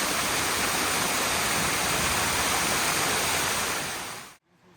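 Kapil Dhara waterfall, a small fall: a steady rush of cascading water, which fades away near the end.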